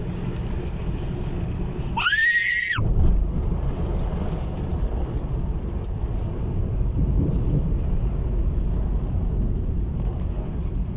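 Heavy rain pouring steadily, with a strong low rumble underneath. About two seconds in, a brief high-pitched tone rises and holds for under a second.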